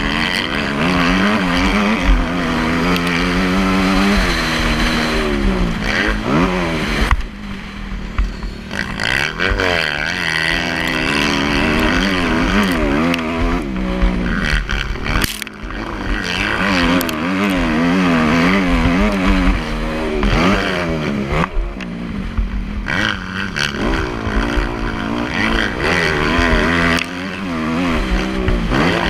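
Motocross bike engine revving up and down as it is ridden, its pitch repeatedly climbing and dropping with throttle and gear changes. It eases off briefly about seven seconds in and again about halfway through.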